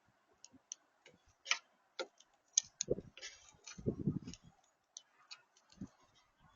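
Irregular sharp clicks and taps, with a dull thump about three seconds in and a longer low rumble a second later.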